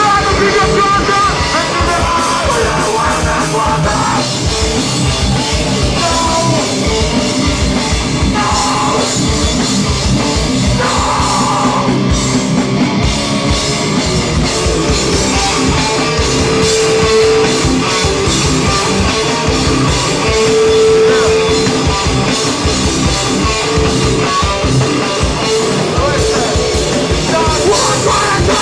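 Live hardcore band playing loud and without a break: pounding drums and distorted guitars, with vocals heard in places early on.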